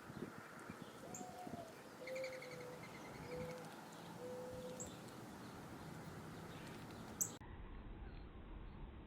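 Faint outdoor birdsong: a dove cooing, one longer rising-and-falling note followed by three shorter level coos, with small birds chirping thinly above it. A short sharp click comes about seven seconds in.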